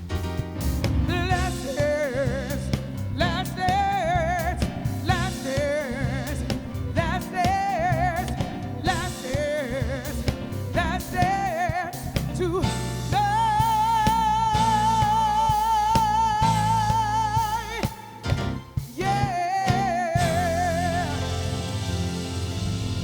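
Live soul band playing while a singer sings short phrases with vibrato, then holds one long note for about five seconds before a brief break and a final phrase.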